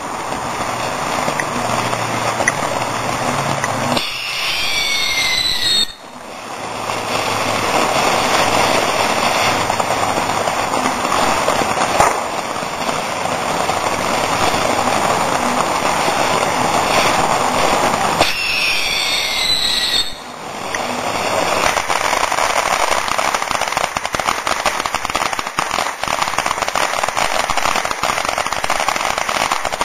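Consumer fireworks crackling continuously in a dense hiss, with shrill whistles gliding up and down about four seconds in and again near eighteen seconds. The crackle briefly drops off twice, just after each whistle.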